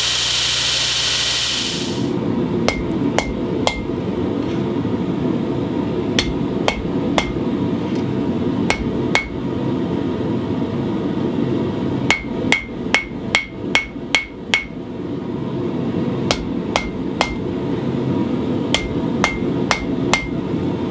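Hammer blows on steel over an anvil, in small groups of two to four with a faster run of about eight near the middle, each strike leaving a short high ring. A loud hiss cuts off about two seconds in, and a steady low rushing noise runs under the blows.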